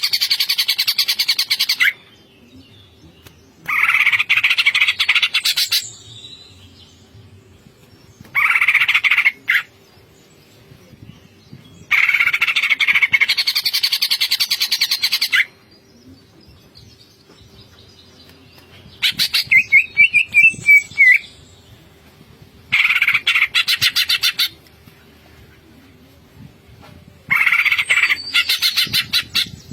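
Cucak ijo (green leafbird) singing in the fast, rattling 'ngentrok' style: about seven bursts of rapid repeated notes, each a few seconds long, with short pauses between them. The burst about two-thirds through has quick whistled notes sliding up and down.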